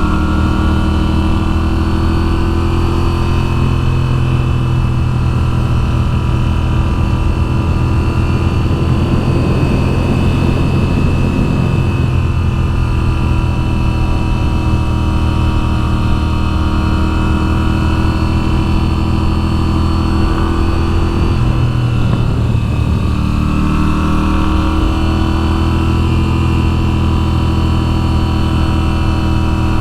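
A 2022 Moto Guzzi V7's air-cooled V-twin engine running under way, its pitch rising and falling repeatedly with the throttle, with a brief drop and recovery about two-thirds of the way through, like a gear change, and a rushing noise over the engine.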